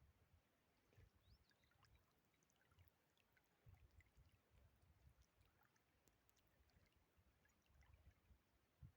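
Near silence: faint low rumbling that comes and goes, with a few faint high chirps and ticks.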